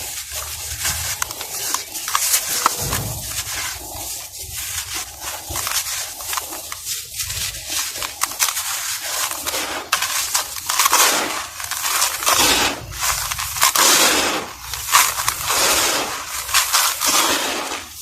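Crumbly molded dusty material being crushed and broken apart by hand, giving dense, irregular crunching and crackling with many sharp little snaps.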